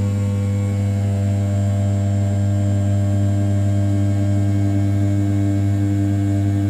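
500 W brushless spindle on an Original Mind RZ420 desktop CNC mill, running at 6000 rpm while rough-milling the outer contour of an A7075 aluminium block. It makes a steady low hum with a few fixed overtones that holds level throughout.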